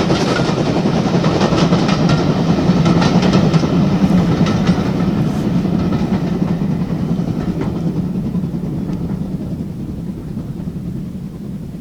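Steam-hauled train passing close by, its wheels clicking over the rail joints, then fading away as it recedes.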